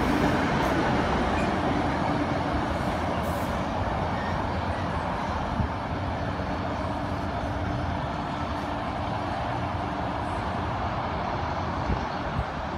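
NJ Transit commuter train rolling along the platform: a steady rumble that slowly fades away.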